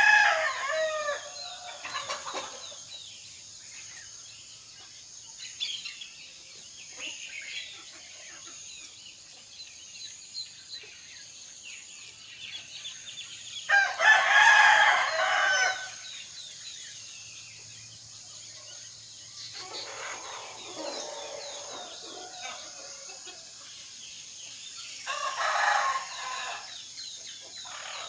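Roosters crowing four times, each crow lasting a second or two; the loudest comes about halfway through and the one a little later is fainter. Small birds chirp faintly in between.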